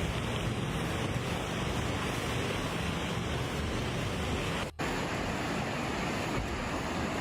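Steady rushing of floodwater, an even roar of noise. It breaks off for an instant about four and a half seconds in, then carries on with a slightly different tone.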